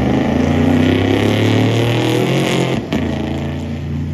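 A car engine running loudly and steadily, with a deep rumble. About three seconds in there is a brief sharp break, and afterwards the engine sounds a little quieter.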